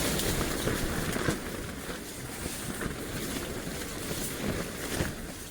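Strong wind gusting against a tent, the tent fabric flapping with occasional sharp snaps, and wind buffeting the microphone.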